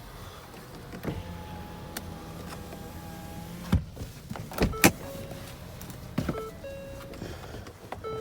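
Car body mechanisms on a 2015 Ford Escape: an electric power window motor running for a couple of seconds, then three sharp clunks a second or so apart, with a few short beep-like tones near the end.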